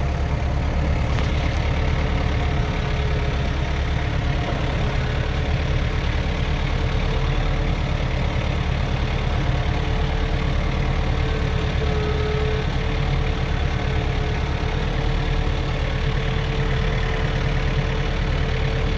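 Farm tractor engine running steadily at low revs under load, heard from inside the closed cab: a constant low drone with a steady tone above it.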